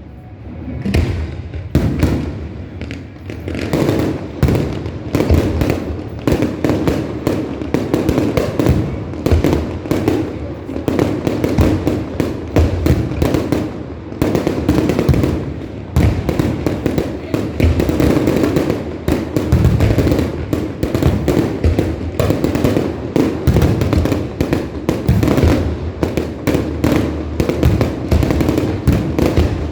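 Fireworks going off in a dense, continuous barrage of rapid bangs and crackles with no pause, many bursts a second.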